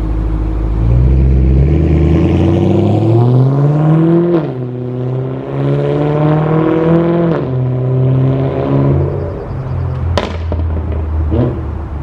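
BMW M3's S65 V8 revving through a valved aftermarket exhaust with the valves open and the catalytic converters hollowed out. The revs climb steadily for about three seconds, drop back, are held up for a few seconds, then fall away toward idle, with a sharp crack about ten seconds in.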